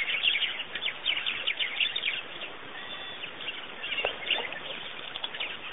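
Many small birds chirping at once, a dense chatter of short, quick, overlapping calls that thins for a moment in the middle and picks up again.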